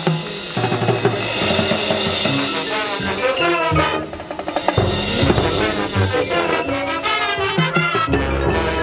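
High school marching band playing its field show: brass and woodwinds with the drum line's snare and bass drums, including a snare roll.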